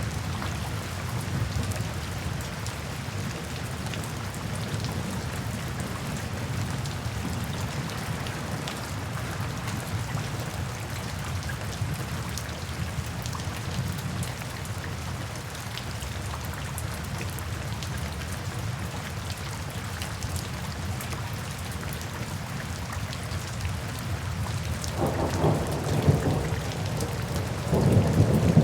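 Steady rain falling, with scattered drop ticks. Near the end a roll of thunder rumbles in and grows louder.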